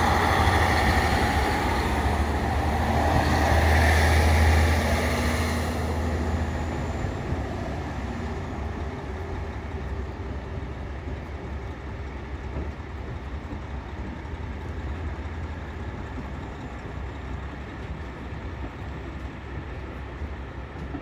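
Diesel train running loudly for the first five seconds, then fading away over a few seconds, leaving a steady, quieter low engine rumble.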